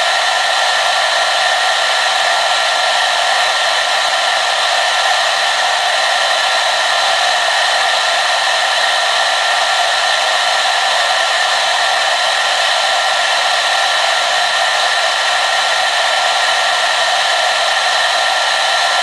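Hair dryer blowing steadily: an even rush of air with a thin steady whine in it, unchanging throughout.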